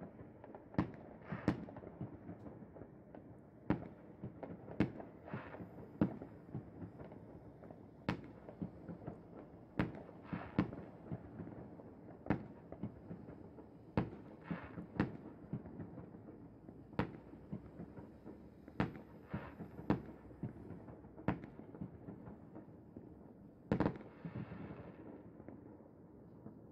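New Year fireworks going off across the city: irregular bangs and pops, at times several a second, some followed by a short crackle, over a steady background noise. The loudest bang and crackle come near the end.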